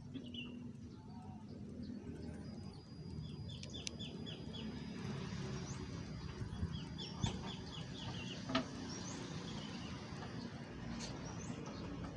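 Small birds chirping in quick runs of short high notes, with a few rising calls, over a steady low background rumble. Two sharp clicks stand out around the middle.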